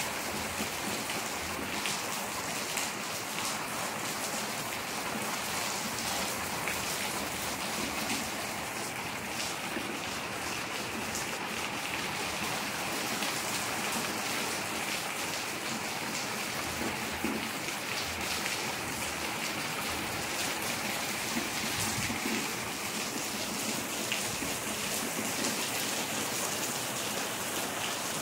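Steady rain falling on a wet concrete yard and its puddles: an even hiss with a fine patter of drop splashes throughout.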